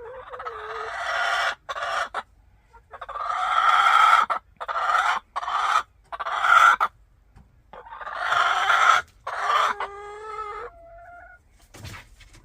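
A backyard hen calling loudly in a run of about eight long, drawn-out squawks, the last trailing off in a held tone: an agitated hen sounding her displeasure.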